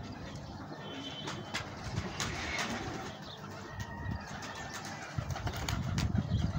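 Doves cooing, with a few short whistled bird notes and chirps.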